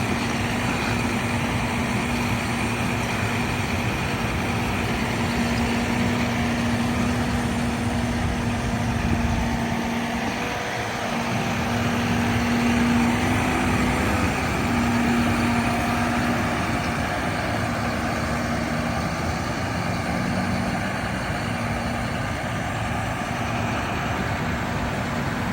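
John Deere 6195R tractor's diesel engine running steadily at a constant speed, with a brief dip about ten seconds in.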